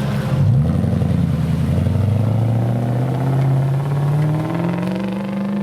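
Off-road competition vehicle's engine revving under load, its pitch climbing steadily for several seconds before levelling off near the end.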